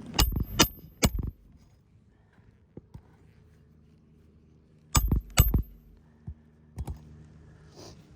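Hammer striking roofing nails into asphalt shingles: three sharp metallic blows in quick succession, then two more about four seconds later, with a few lighter taps between.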